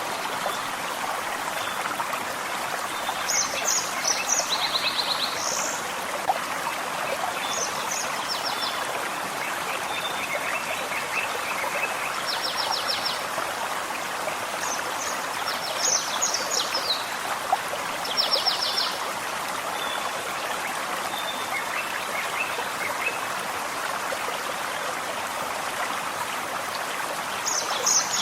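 Forest stream running steadily, with songbirds singing short high phrases and quick trills every few seconds over the water.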